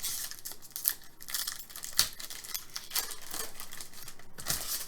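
Crinkling and rustling of trading-card pack wrapping and cards being handled, with a few sharp clicks.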